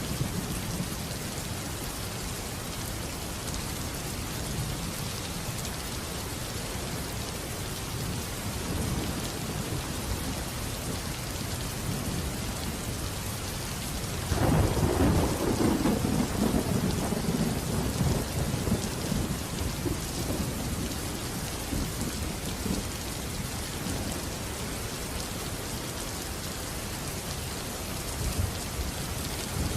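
Steady heavy rain with a clap of thunder about halfway through that sets in suddenly and rumbles away over several seconds.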